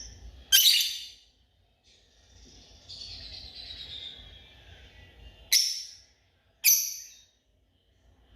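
African lovebird calls: three loud, sharp, shrill shrieks, one early and two close together past the middle, with softer chattering between them.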